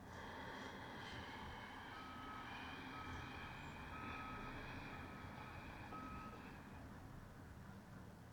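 A vehicle's reversing alarm beeping five times, about once a second, faint and in the background, over a soft steady hiss.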